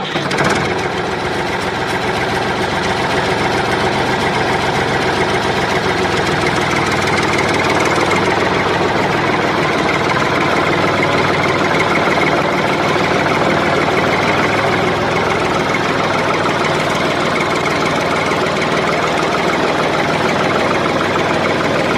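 Small motor of a homemade model tractor running steadily, with a fine rattling whir from its drive.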